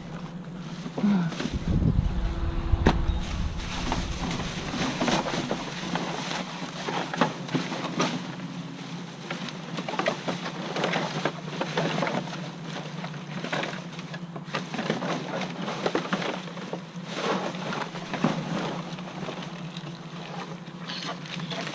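Trash being rummaged through by hand: irregular rustling, crinkling and clattering of items being shifted, over a steady low hum, with a deep thump of handling about two seconds in.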